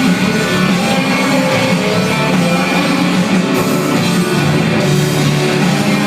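Live rock band playing: loud distorted electric guitars, bass and drum kit, with no vocals.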